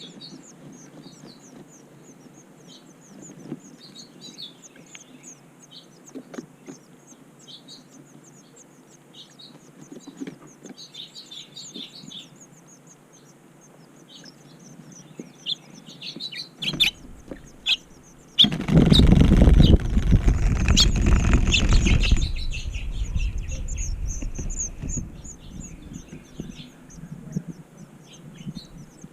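Small birds chirping and tweeting repeatedly in short, high calls. For about three and a half seconds past the middle, a loud rustling rumble drowns them out, then the chirping carries on.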